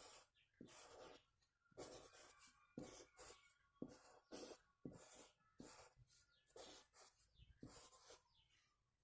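Faint scratchy strokes, one or two a second, of a kolam being drawn by hand on the floor.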